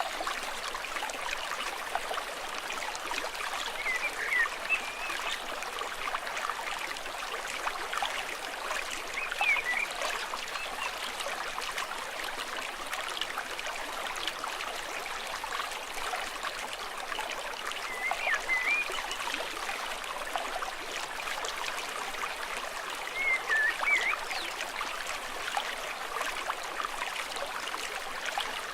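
A stream running steadily. A bird gives a short chirping call four times, several seconds apart.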